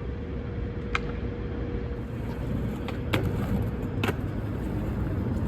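Steady low rumble of street noise, with three sharp clacks about one, three and four seconds in.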